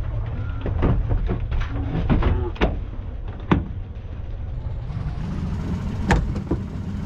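A few sharp knocks and clunks from handling gear aboard a small boat, over a steady low rumble.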